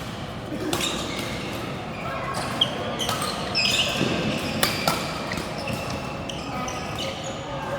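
Indoor sports hall: a few sharp ball hits or bounces over a background of people's voices echoing in the large room.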